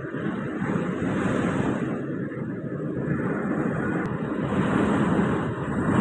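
Super-typhoon wind blowing hard and continuously, a deep rushing that swells slightly toward the end, with gusts buffeting the microphone.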